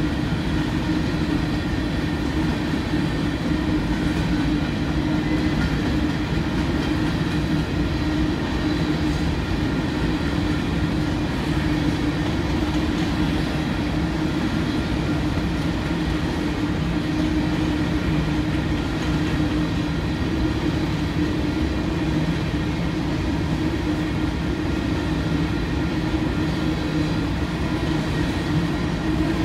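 Freight train cars rolling past at track side: a steady, unbroken rumble with the clatter of steel wheels on rail.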